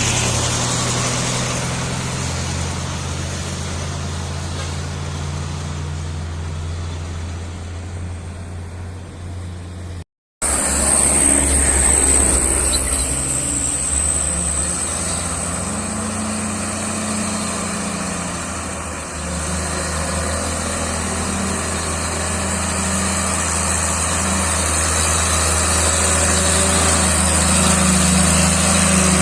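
Diesel engine of a Mitsubishi Fuso truck running hard under load on a steep climb, its pitch rising and falling a couple of times in the second half. The sound drops out for a moment about ten seconds in, then resumes.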